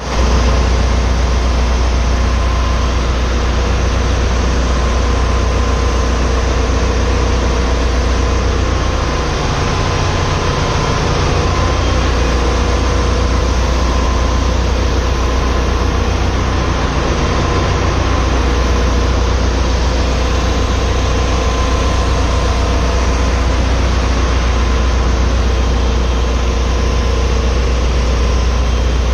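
Ship's main engine and engine-room machinery running steadily and loudly: a deep, constant hum with a faint steady whine above it, heard inside the engine room.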